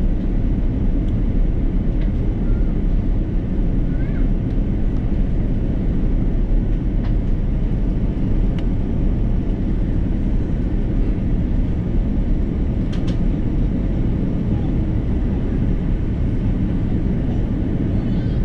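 Airbus A330 cabin noise heard from a window seat: a steady, loud rush of engine and airflow noise, with a few faint clicks.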